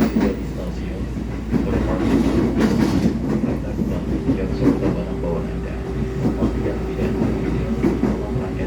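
KRL Commuter Line electric train running on the rails, a steady rumble with the wheels clacking over the track. A steady hum comes in about halfway through.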